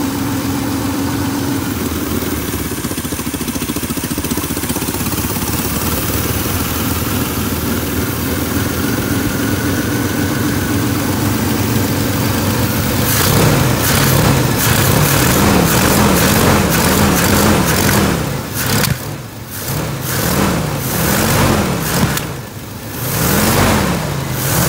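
Small Chevrolet/GMC S-series pickup engine running steadily at idle. About halfway through, the sound turns louder and uneven, its low pitch rising and falling again and again.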